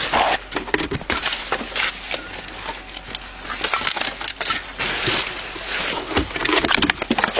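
Rustling, scraping and irregular knocking of a body-worn camera jostling against clothing and gear as the wearer walks, with footsteps.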